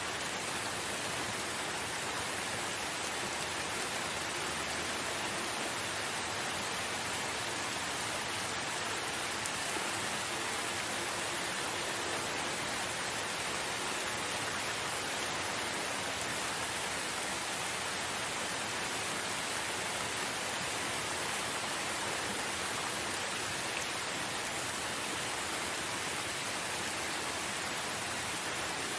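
Steady rain falling in a forest, an even hiss of many drops without thunder or breaks.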